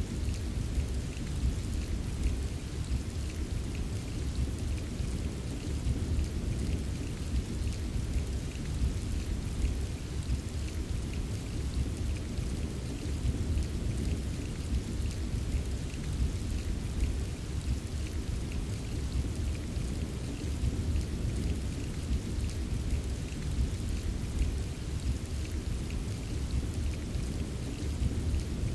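Steady rainfall with a constant low rumble under it and light ticks of drops hitting a surface, unchanging throughout.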